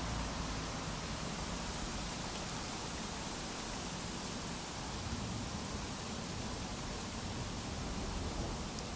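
Steady rain during a thunderstorm, an even hiss with no distinct drops or thunder claps.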